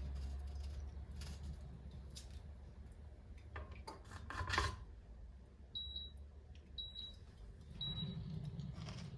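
Small handling sounds, loudest as a brief clatter about halfway through, then three short high electronic beeps about a second apart, like the button beeps of a kitchen appliance.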